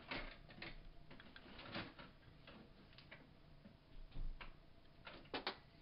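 Light irregular clicks and taps of small parts and tools being handled on a work surface, the loudest a quick double knock near the end.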